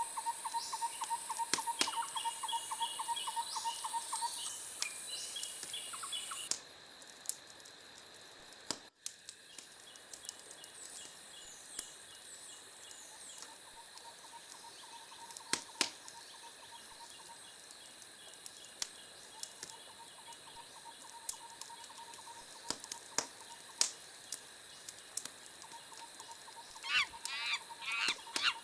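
Birds calling: repeated short chirping trills throughout, then a burst of quick rising-and-falling calls near the end, over steady high-pitched tones, with scattered sharp pops.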